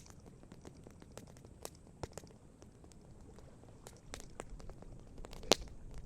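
Wood campfire crackling: scattered sharp pops and snaps of burning wood, the loudest about five and a half seconds in. A low rumble comes in about four seconds in.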